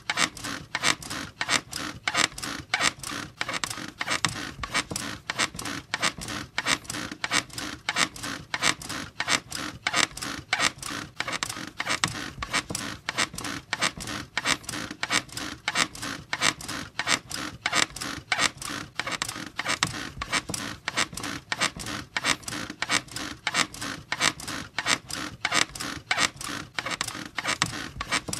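Bed squeaking rhythmically, the frame or springs creaking over and over at a steady pace, as from repeated rocking or bouncing on the mattress.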